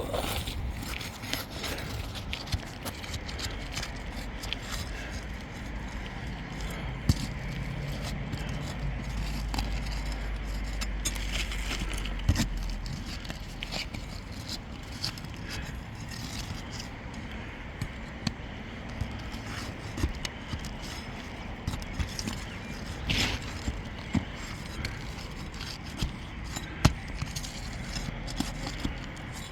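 Irregular scraping, crackling and clicking of hand work on asphalt roof shingles, as the shingles above are lifted to get at and pull the nails holding the damaged one.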